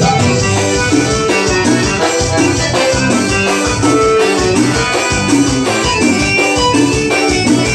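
Forró band playing live: an instrumental passage with a steady, even beat.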